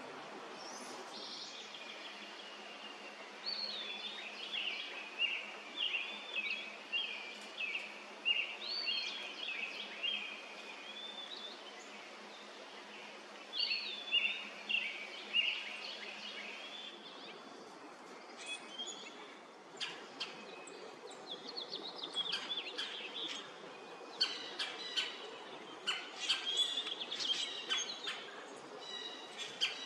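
Backyard songbirds singing: repeated warbling phrases of curling notes for the first half. Short, sharp chips and chirps follow in the second half, over a faint steady outdoor hiss.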